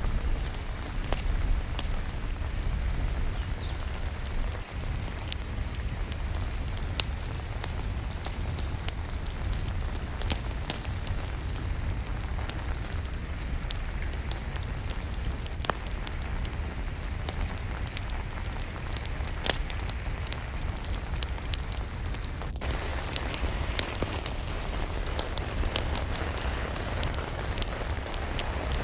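Steady rain falling, with a wood fire crackling in a fireplace: scattered sharp pops and snaps over the hiss of the rain and a low rumble.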